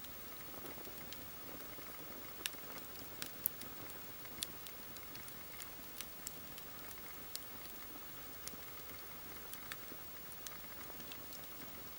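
Wood campfire crackling: irregular sharp snaps and pops of burning logs over a soft steady hiss, the loudest snap about three and a half seconds in.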